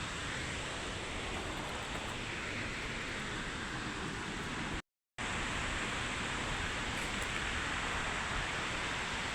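Steady, even rushing noise with no distinct events, cut off by a brief dropout about five seconds in.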